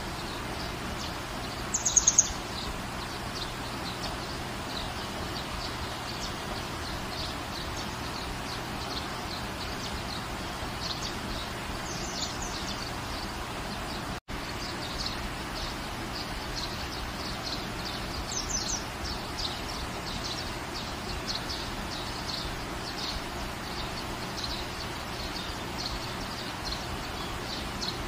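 Steady rain falling in a garden, an even hiss, with a bird chirping in quick short series now and then, loudest about two seconds in. The sound drops out for an instant about halfway through.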